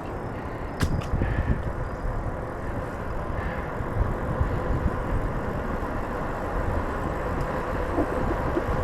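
Wind rushing over the microphone and tyre noise of a bicycle rolling along a trail, with one sharp click about a second in.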